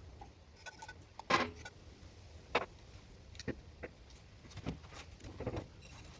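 Irregular clicks and knocks of hand-tool work on a wood lathe's headstock as it is taken apart, the loudest about a second and a half in.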